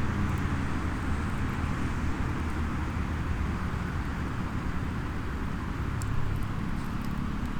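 A few faint crackles from a small wood fire, the clearest about six seconds in, over a steady low outdoor rumble.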